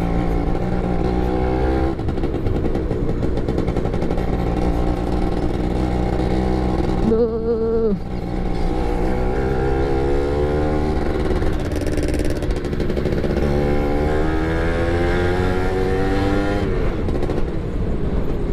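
Yamaha F1ZR two-stroke motorcycle engine under way, revs rising again and again as it pulls through the gears, with a brief let-off of the throttle about seven seconds in.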